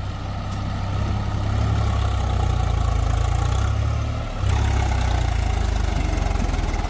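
Heavy diesel engine running steadily at a low, even pitch. It dips briefly a little past halfway, then comes back up.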